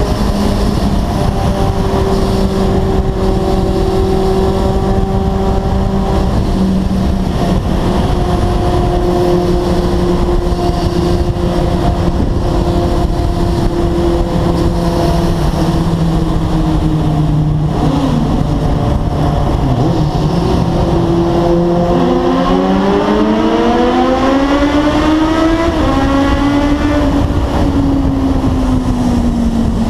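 Kawasaki Z750's inline-four engine and exhaust heard from the rider's seat inside a road tunnel, cruising at steady, slowly sagging revs. Near the end the revs climb for about five seconds, with a brief step partway, then ease off again.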